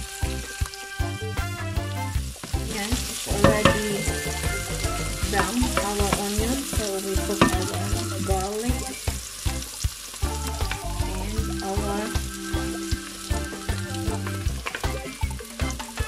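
Sliced onions sizzling in hot oil in a wok, stirred with a wooden spoon that scrapes and clacks against the pan at irregular moments.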